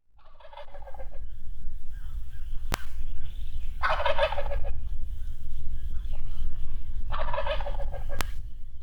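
Male wild turkey gobbling three times, each rattling gobble about a second long and about three seconds apart. Two sharp clicks, and a steady low rumble underneath throughout.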